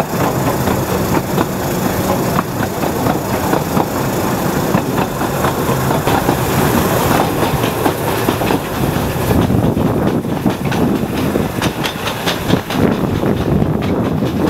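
Narrow-gauge train coaches running along the line, heard from an open carriage window: a steady rumble with irregular clattering of wheels on rail joints and rattling carriages.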